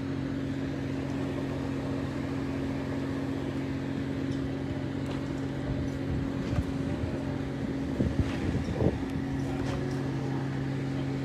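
Steady low machinery hum, with a few knocks and bumps about two-thirds of the way through.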